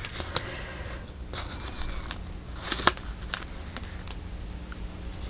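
Paper being handled and cut with scissors: light rustling with a few sharp snips.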